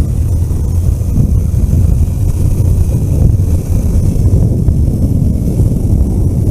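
Steady low rumble of a vehicle driving along a road, engine and road noise mixed, with no change in speed.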